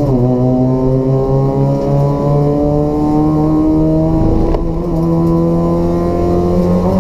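Race-built Toyota Etios's 1.5-litre petrol engine with free-flow exhaust and cold air intake, pulling hard under full throttle. Its pitch climbs slowly through a gear, drops sharply at an upshift about four and a half seconds in, then climbs again.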